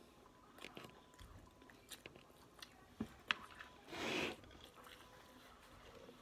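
Close-miked chewing of a mouthful of hibachi chicken, shrimp and fried rice: soft, wet mouth clicks and smacks, with one sharper click about three seconds in and a short louder burst of noise about four seconds in.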